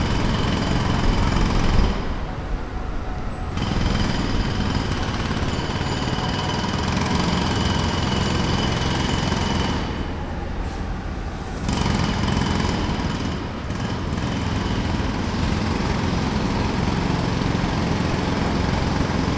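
Jackhammer running in long bursts, stopping briefly twice, about two seconds in and about ten seconds in. A low rumble carries on through the pauses.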